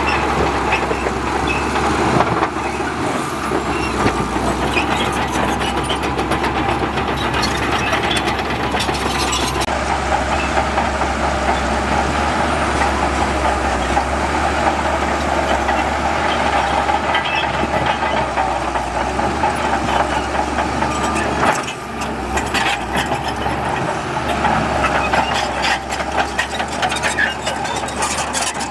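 Heavy diesel earthmoving machinery running steadily, with a short dip in level a little after twenty seconds.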